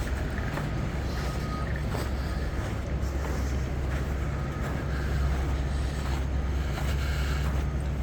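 Low, steady rumble of wind buffeting the microphone outdoors, with scattered faint crunches of footsteps on icy snow.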